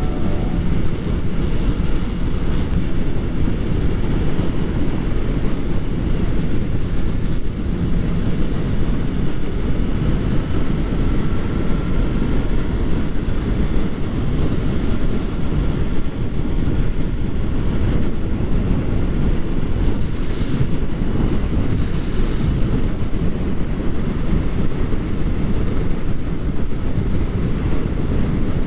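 Steady wind rush buffeting a motorcycle-mounted action camera's microphone at riding speed, with a Kawasaki Ninja 400's parallel-twin engine running underneath.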